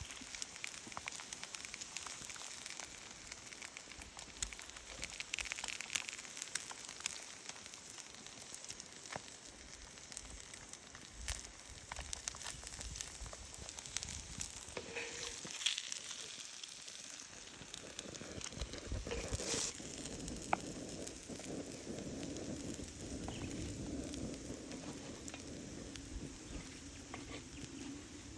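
Small campfire crackling with many sharp pops, and food sizzling in a pan over the fire, steadier in the second half.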